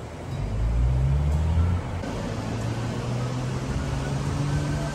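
Vehicle engine running with a low, steady hum. It is louder for the first couple of seconds, then settles to an even drone.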